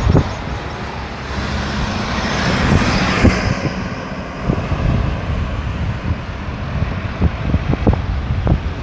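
Road traffic circling a busy roundabout, with a steady engine and tyre rumble. A vehicle passes close, its tyre hiss swelling to a peak about three seconds in and then fading. Short low thuds recur throughout.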